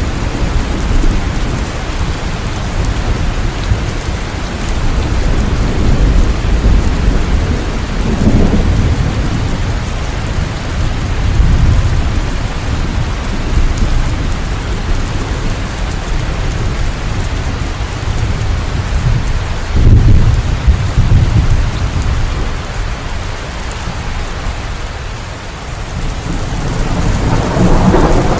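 Steady heavy rain with low, rolling rumbles of thunder, one swelling about two-thirds of the way through and another building near the end.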